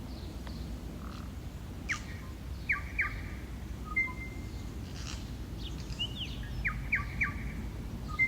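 Wild birds chirping: short, sharp calls, a few in quick succession about two seconds in and again near the end, over a steady low background rumble.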